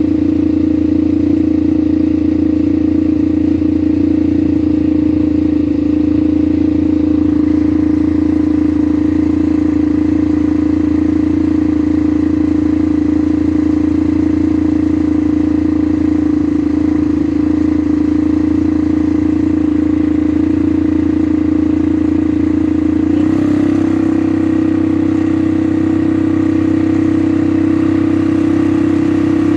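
ATV engine running at a steady speed, a loud constant hum whose pitch changes slightly about 23 seconds in.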